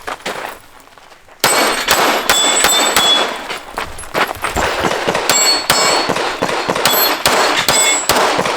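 Rapid pistol shots with steel targets ringing as they are hit. The shooting starts about a second and a half in and runs on in quick strings of shots and clangs.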